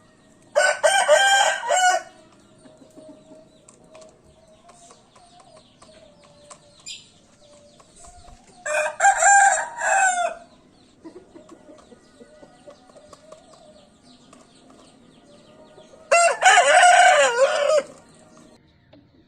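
A Bangkok game rooster crowing three times, each crow lasting about one and a half to two seconds, roughly seven to eight seconds apart.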